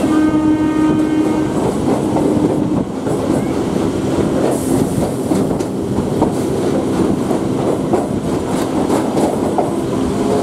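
Onboard an Indian Railways EMU local train running at speed, wheels clattering over rail joints, with a train horn blast for about a second and a half at the start. Near the end a rising hum sets in as an oncoming EMU passes close alongside.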